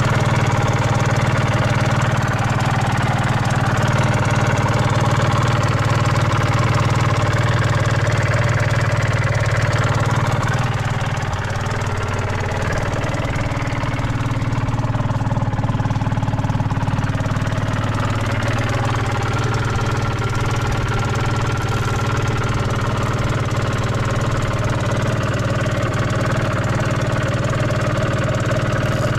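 Suzuki RGV250Γ's two-stroke V-twin engine running steadily at idle, with a slight dip in loudness about eleven seconds in. The seller says it runs with no abnormal noise.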